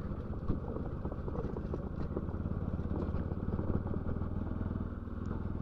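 Motorcycle engine running steadily under way, a low even drone with a fast pulse.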